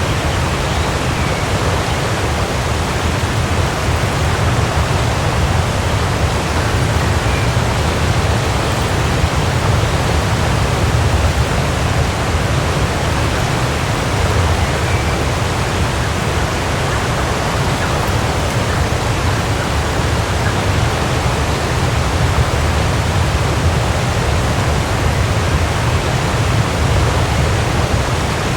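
Waterfall: water falling and splashing in a steady, unbroken rush, heaviest in a deep low rumble.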